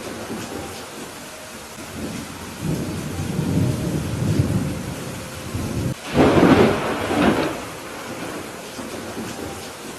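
Thunderstorm: steady rain with rolling thunder. A low rumble builds about two and a half seconds in, then a louder, sharper clap about six seconds in rumbles away.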